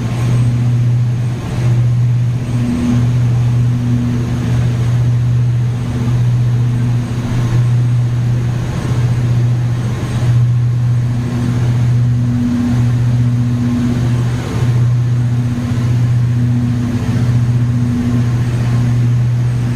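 Ferry's engines running, a deep steady drone heard on board with a rushing noise over it.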